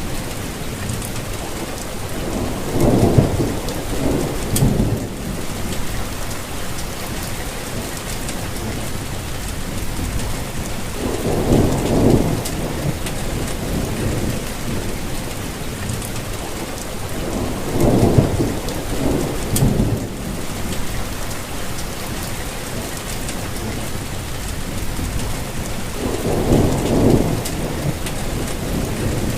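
Steady rainfall, with four low rumbles of thunder swelling and fading, each lasting about two seconds.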